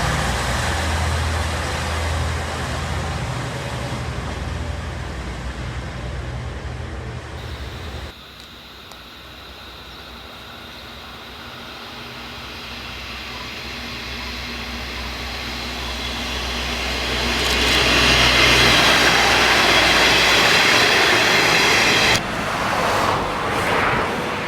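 Diesel railcar of the old national-railway (JNR) type: first its engine running with a steady low hum, then, after an abrupt change about eight seconds in, a railcar growing steadily louder with engine rumble and rolling noise as it approaches, loud for several seconds before the sound breaks off near the end.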